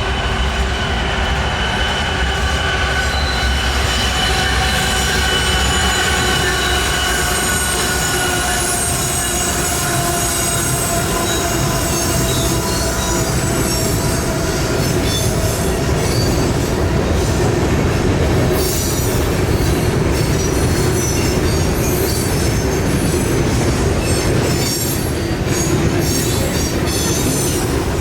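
Train rolling past with wheel squeal: several high tones that slide slowly down over the first dozen seconds. In the second half, rapid clicking of wheels over rail joints comes in.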